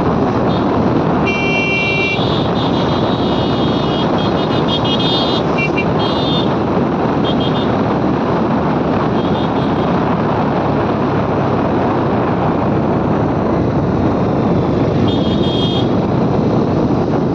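Steady rushing wind and road noise from a moving motorcycle in traffic, with vehicle horns honking several times in the first six or so seconds and again near the end.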